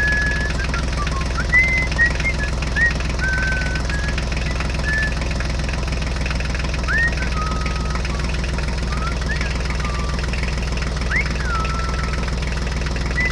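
A small engine running steadily with a fast, even knocking rhythm, with short high chirps scattered over it.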